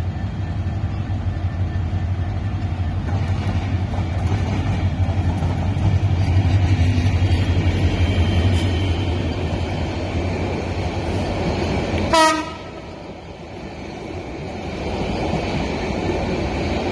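Passenger coaches rolling past with a steady rushing rumble, over the low, even drone of an idling EMD diesel-electric locomotive. About twelve seconds in a short horn blast sounds, and right after it the low drone drops away while the rolling noise of the coaches goes on.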